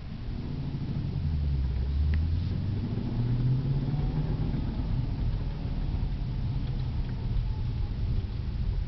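2011 Cadillac CTS-V's supercharged V8 pulling away from a stop, heard from inside the cabin: a low engine drone whose note climbs over the first few seconds, then holds steady.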